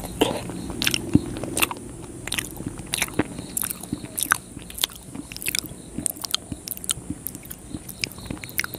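Close-miked mouth biting and chewing a soft Indian milk sweet: wet, sticky mouth clicks and smacks, irregular and several a second, over a faint steady hiss.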